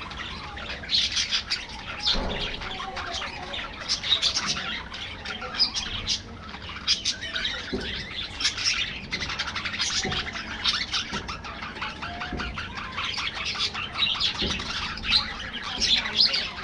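A flock of budgerigars chattering: many short chirps, warbles and squawks overlapping without a break.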